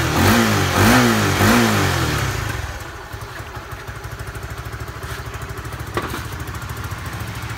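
Honda Winner V1's single-cylinder engine blipped three times in quick succession, each rev rising and falling back, then settling into a steady idle. A single sharp click about six seconds in.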